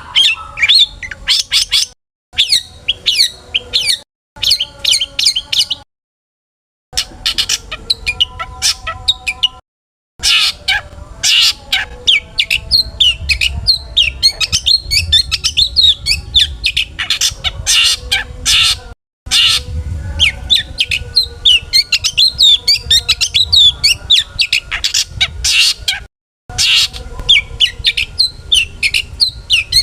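Long-tailed shrike (cendet) singing a fast, varied song of rapid chirps and squawky notes packed with mimicked calls of other birds. The song cuts out to dead silence several times, as if spliced.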